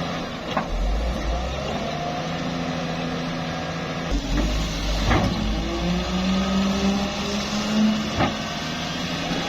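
Doosan 210W wheeled excavator's diesel engine running and pitching up as it works under load, with three sharp clanks about half a second, five and eight seconds in.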